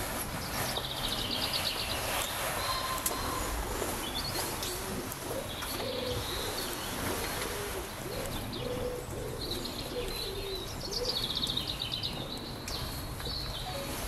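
Woodland birds singing: a burst of rapid, high trilled song about a second in and another about ten seconds in, with short, soft low calls in between.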